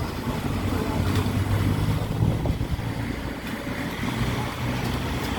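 A low engine hum that swells about a second in and eases after about three seconds, with wind noise on the microphone.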